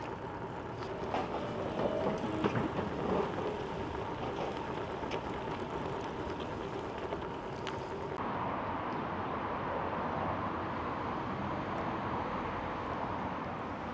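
Steady rushing noise of a bicycle ride, tyres rolling and air moving past, with a few faint clicks in the first half. The noise changes abruptly about eight seconds in, turning duller.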